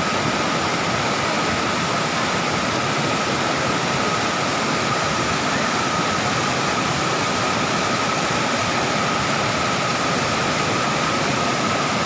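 Waterfall rushing: a steady, unbroken wash of falling water, with a faint steady high tone running over it.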